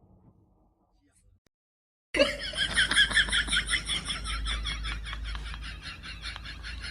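Near silence, then about two seconds in someone breaks out laughing, high-pitched and in rapid pulses.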